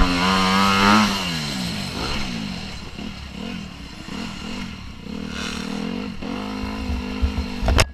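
Motocross bike engine revving hard, its pitch rising and falling repeatedly with throttle and gear changes, settling to a steadier note near the end. A sharp knock comes just before the end.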